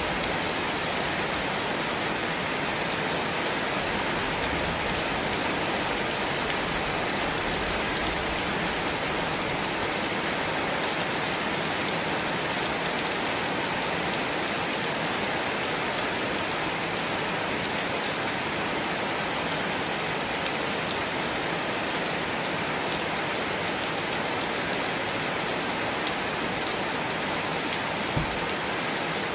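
Steady rain falling, an even, unbroken hiss of drops, with one brief low thud near the end.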